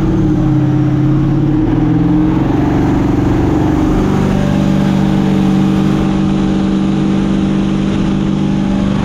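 Mini jet boat's engine running hard. Its pitch wavers and climbs about two seconds in, then holds steady and loud.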